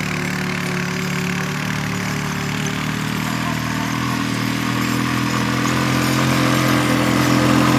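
Quad (ATV) engine running at low speed, its pitch and loudness rising gradually over the last few seconds.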